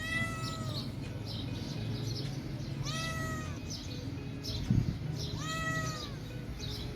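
Domestic cat meowing three times, each call rising and falling over about half a second to a second, with a short thump about five seconds in.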